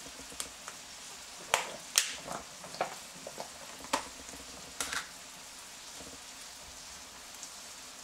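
Chicken and seasonings sautéing in a pan with a faint steady sizzle. A utensil knocks sharply against the pan about ten times in the first five seconds, then only the sizzle goes on.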